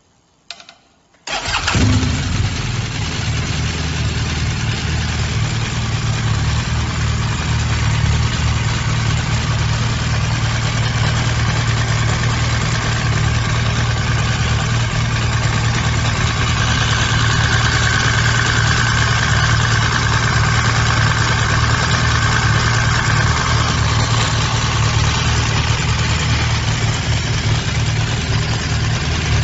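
BMW motorcycle engine starting: a brief click, then about a second in the engine catches and settles into a steady idle.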